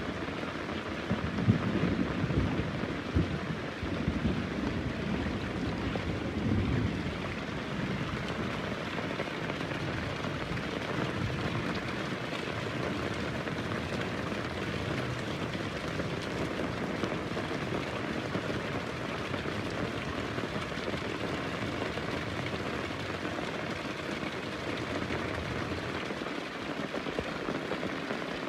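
Heavy rain falling steadily, with a rumble of thunder in the first few seconds that dies away into the rain.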